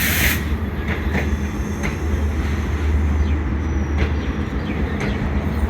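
Passenger train rolling slowly into a station as it nears its stop: a steady low rumble with scattered wheel clicks and faint squeaks, and a brief hiss at the very start.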